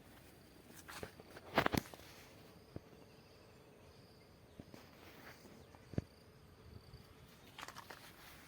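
Footsteps with scattered crunches and rustles on dry ground and plants, the loudest cluster of crackles about one and a half seconds in and a single sharp knock near six seconds. Insects chirp faintly behind.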